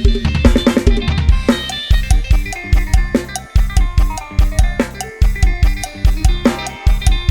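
Thai lam sing style band music with drums from the Addictive Drums 2 virtual kit, playing a fast, driving kick-and-snare beat under bass and melodic instrument lines. It opens with a rapid drum fill in the first second or so.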